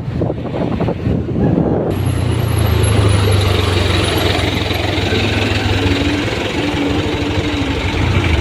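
Diesel dump truck engine running steadily, coming in strongly about two seconds in after wind buffeting on the microphone, with a higher tone stepping up in pitch in the second half.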